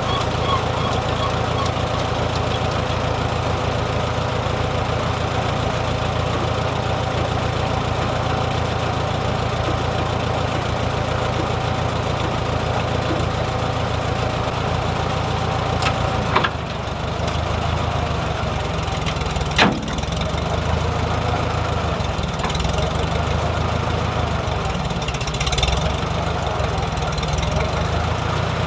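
An engine idling steadily. Its tone shifts about sixteen seconds in, and sharp clicks come then and again a few seconds later.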